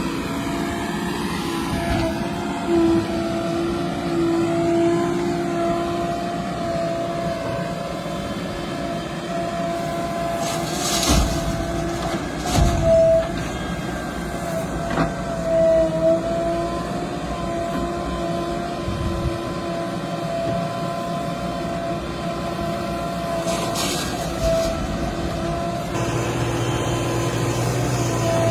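JCB 3DX backhoe loader diesel engines running steadily under work, with a held whine over the engine note. A few loud knocks come in a cluster in the middle and once more near the end.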